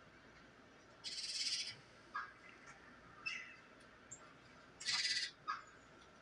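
Wild birds calling in a bird video played through a TV's speakers: two loud, harsh, raspy calls about a second in and again near five seconds, with a few short chirps between and after.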